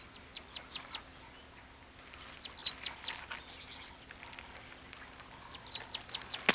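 Birds chirping in the bush: bursts of short, high chirps with a few whistled notes, coming in clusters near the start, around the middle and near the end.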